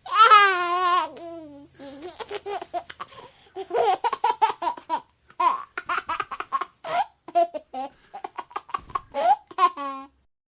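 A baby laughing: first a long, high squeal whose pitch wavers and falls over about a second, then bursts of short, quick giggles.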